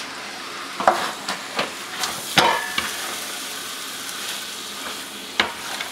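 Milkfish and vegetable stuffing sizzling in a stainless steel pot as it is stirred, with a few knocks of the spoon against the pot, the loudest about two and a half seconds in.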